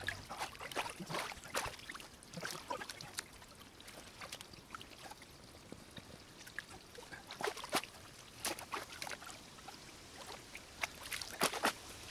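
Water trickling and splashing into a pond from a newly installed pond pump and filter, with irregular small splashes and drips, a few louder ones near the end.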